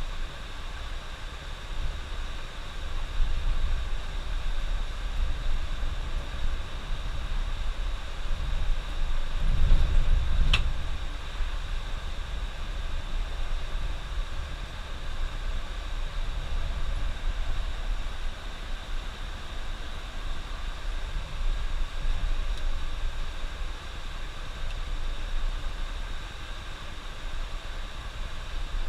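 Steady low rumble and hiss of a bus travelling on the road, heard from inside. It swells about nine to ten seconds in, with one brief sharp click near that peak.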